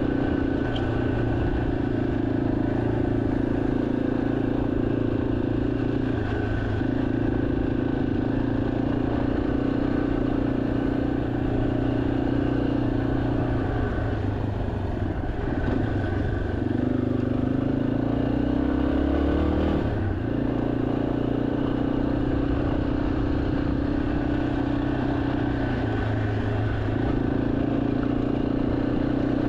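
2023 Yamaha XT250's air-cooled single-cylinder engine running steadily under way. About halfway through it eases off, then picks up again with a rising pitch before settling back to a steady run.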